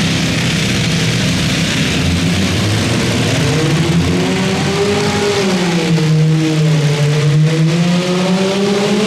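Modified garden pulling tractor engine running hard under load, its pitch steady at first and then sagging and climbing again from about halfway through.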